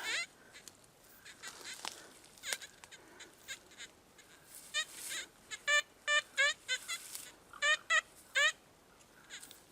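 Metal detector giving short beeping tones in quick clusters as it is passed over a very small target in the soil, a shot pellet or tiny coin.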